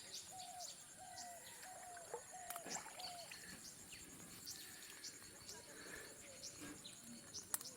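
Faint outdoor birdsong: one bird repeats a short call about five times at an even pace in the first few seconds, while other birds give quick high chirps throughout.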